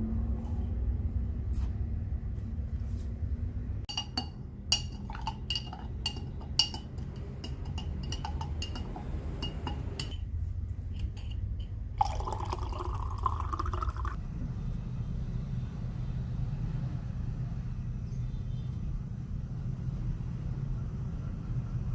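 Repeated ringing clinks of glass or crockery, then liquid poured into a container, the pitch rising as it fills, over a steady low hum.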